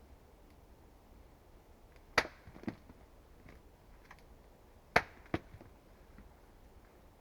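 Axe chopping wood: two sharp strikes about three seconds apart, each followed about half a second later by a lighter knock.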